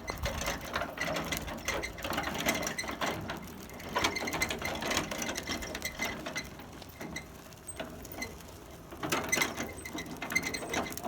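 A dense, irregular rattle and scrape of hard construction rubble being moved and set down, made up of many quick clicks, with a quieter stretch about two-thirds of the way through.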